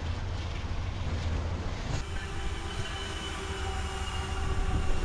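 Freight train hopper cars rolling past. About two seconds in, the sound cuts abruptly to diesel locomotives passing close, their engines running with several steady tones over the rolling noise.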